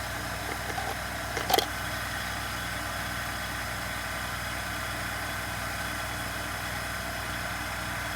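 Steady, even machine hum in the background. A short sharp click, from small parts being handled, comes about one and a half seconds in.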